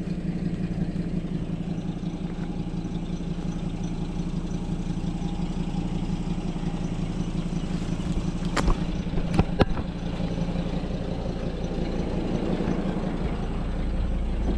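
Vehicle engine running steadily at low speed while the vehicle is steered out of a tight spot. Three sharp knocks come a little past halfway through.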